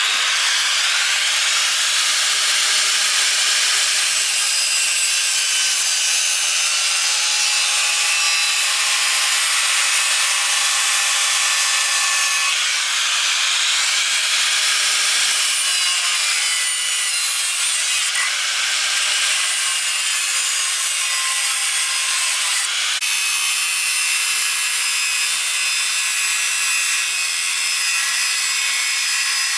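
Angle grinder cutting into iron bar: a loud, steady grinding noise with a thin high whine, starting abruptly and changing slightly in tone about two-thirds of the way through.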